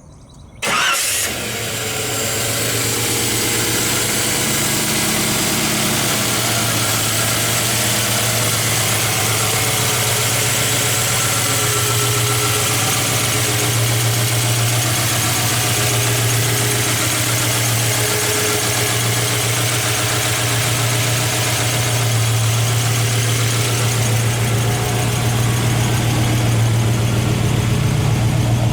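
Fuel-injected small-block V8 of a 1967 Chevrolet C10 pickup starting about a second in, then idling steadily.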